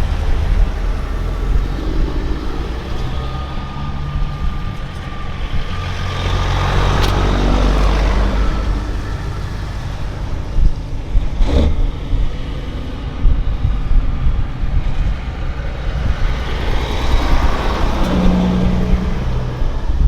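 Heavy vehicle engines running with a steady low rumble. Two vehicles pass close by, about seven seconds in and again near the end, and there is a single sharp knock around eleven seconds.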